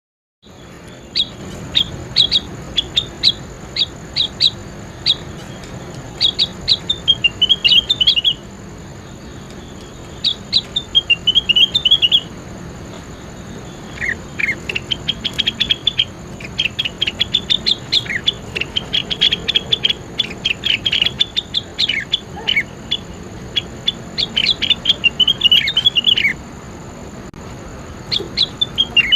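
A songbird singing in rapid phrases of sharp chirps and falling trills, with short pauses between phrases; a faint steady high-pitched tone runs underneath. The sound starts about half a second in, after silence.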